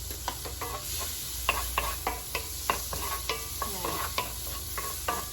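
Garlic frying in hot butter in a pan, sizzling with many sharp crackles and pops as it is stirred.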